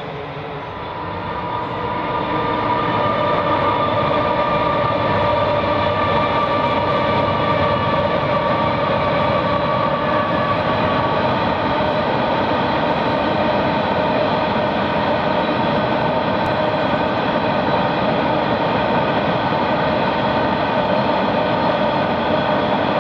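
Coal train hopper wagons rolling across a river bridge: a loud, steady rumble with several steady whining tones over it. It grows louder over the first couple of seconds, then holds.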